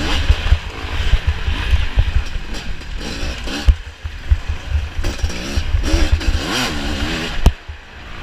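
Off-road dirt bike engine running hard under the rider, its pitch rising and falling with the throttle, over heavy low rumble and frequent knocks on the microphone.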